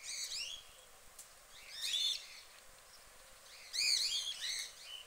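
Small songbird singing in short bursts of quick, high chirping notes, three phrases about two seconds apart.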